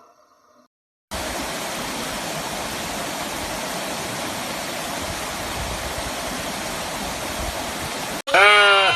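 A steady, even rushing noise like running water, which cuts off suddenly near the end into a sheep's loud bleat.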